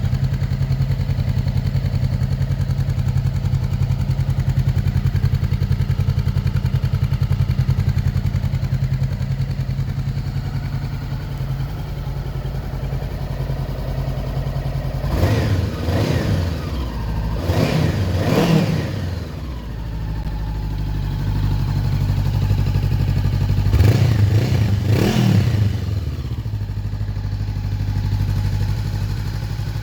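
A 2019 Honda CBR500R's parallel-twin engine, breathing through an aftermarket Leo Vince exhaust, idles steadily. About halfway through it is blipped three times, the revs rising and dropping back to idle each time.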